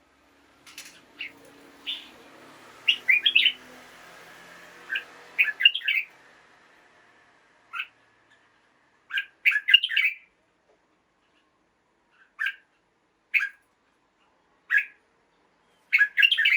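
Red-whiskered bulbul singing: short, bright phrases of chirping notes, one every second or two, with wider gaps between phrases in the second half.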